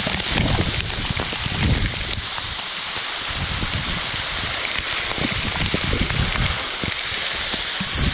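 Large waterfall's water falling with a steady rush, while gusts of wind buffet the microphone.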